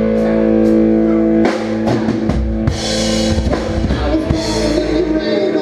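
Rock band music with no singing. A sustained chord rings for about a second and a half, then a drum fill of bass-drum and tom hits with cymbal crashes leads back into the song.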